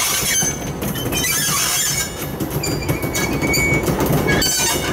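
CSX local freight train rolling past, its steel wheels squealing in short high tones with scattered clicks over the rails.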